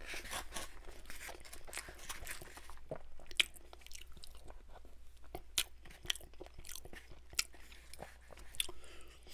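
Close-miked chewing and wet mouth sounds of someone eating chicken fried rice, made up of irregular sharp clicks and soft crunches, with a wooden spoon working through the rice in a foam takeout container.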